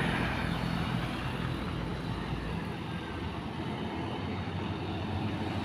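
Truck engine running steadily under road noise, with a low hum.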